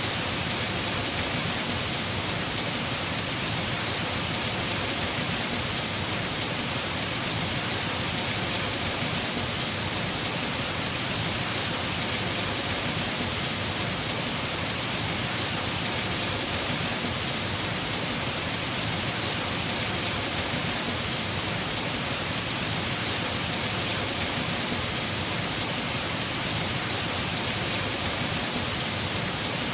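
Heavy rain falling steadily on a house roof, a dense, even hiss with no letup.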